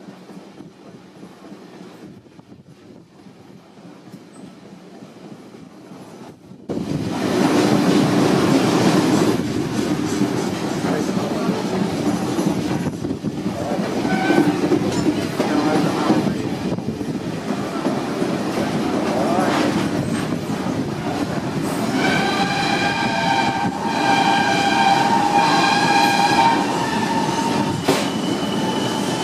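Double-headed steam train hauled by locomotives 3642 and 3265, running loud and close. The sound comes in suddenly about seven seconds in, after a quieter start. Near the end the whistle sounds in three short blasts.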